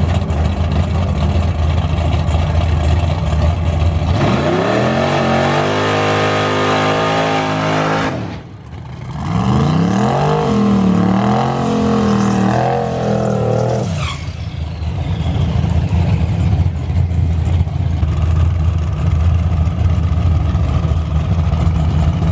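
Car engine idling, then revving up about four seconds in. It drops off briefly near the middle, revs and wavers again, and settles back to a steady idle after about fourteen seconds.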